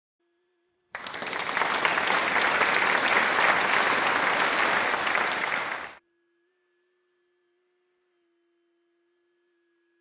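A burst of applause, about five seconds long, that starts and cuts off abruptly, with a very faint steady tone before and after it.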